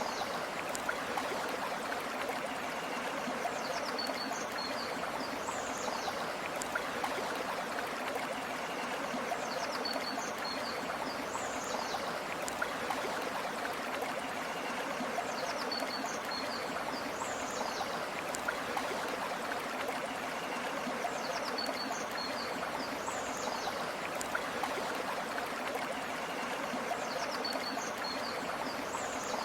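River stream flowing steadily. A short, high chirping call recurs over it about every six seconds, the same each time.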